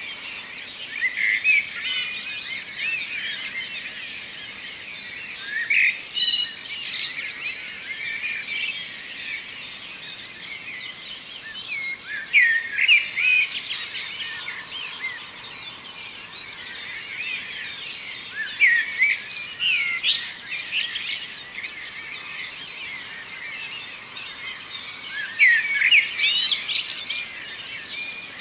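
Songbirds singing, with many overlapping chirps and warbled phrases and louder bursts of song every few seconds.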